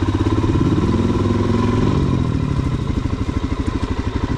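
Suzuki DR-Z400SM's single-cylinder four-stroke engine running at low revs, each firing pulse plain, the revs rising and easing off.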